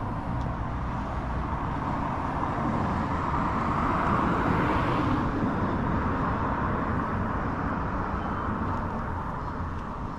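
A car driving past, its engine and tyre noise swelling to a peak about halfway through and fading away again, over a steady low rumble.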